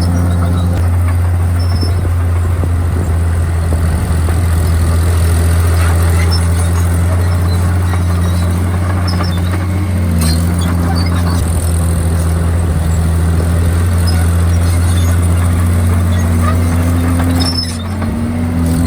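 Komatsu D51PX bulldozer's diesel engine running steadily. Its pitch shifts briefly about halfway through and again near the end, where the sound dips for a moment.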